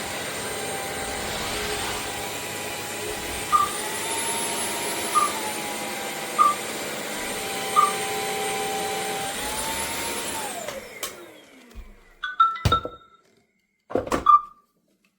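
Bissell CrossWave OmniForce cordless wet-dry vacuum's motor running with a steady whine. Its pitch steps up and back down twice, with four short beeps along the way. About eleven seconds in the motor winds down to a stop, followed by a couple of sharp clicks.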